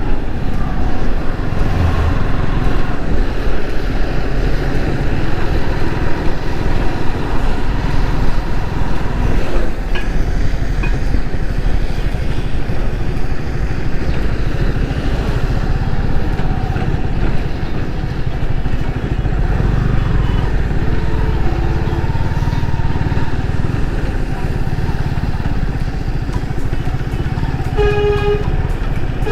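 Yamaha R15 V3's 155 cc single-cylinder engine running steadily as the bike cruises at highway speed, with road and wind noise. A horn sounds briefly near the end.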